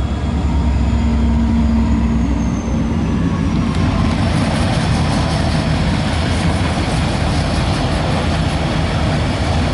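CSX local freight train going by: the diesel locomotive runs with a deep rumble and a steady hum. From about four seconds in, the louder, wider wheel-on-rail noise of the freight cars rolling past takes over.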